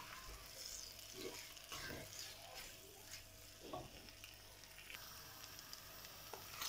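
Faint sizzle of small pork pieces frying slowly in oil on a low flame in a clay pot, with a few scrapes of a wooden spatula stirring them.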